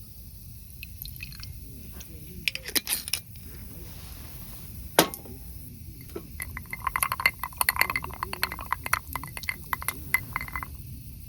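Glassware clinking: a few light clicks, one sharp ringing clink about five seconds in, then a run of about four seconds of rapid, ringing clinks.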